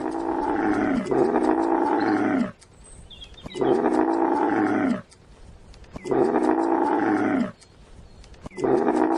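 Camel calling: a run of about five long, low calls, each lasting one to two seconds with short gaps between them. The last call is cut off abruptly.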